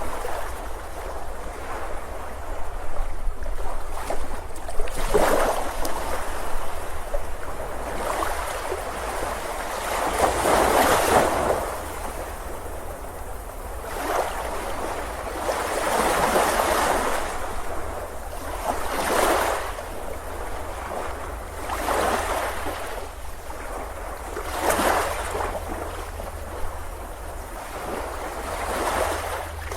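Sea waves washing onto a beach, each surge of surf swelling and fading every three to six seconds over a steady low rumble.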